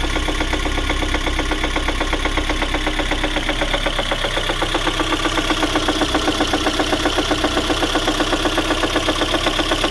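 Lada Granta's 1.6-litre eight-valve VAZ-21116 four-cylinder engine running at idle with a steady, rapid rhythmic knock. The knock is serious enough that the mechanic feared a connecting rod would break through the block.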